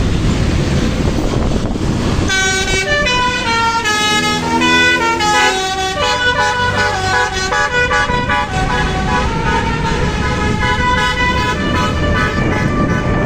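Bus basuri horn, a multi-tone musical horn, playing a melody of stepped notes that starts about two seconds in, over road and engine noise.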